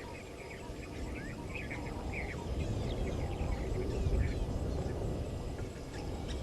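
Wild birds calling with many short chirps and slurred notes over a low, uneven rumble that swells about four seconds in.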